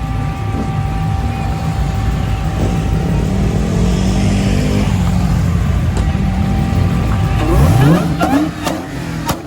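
Loud car engine rumbling, then revving up near the end, followed by a few sharp cracks.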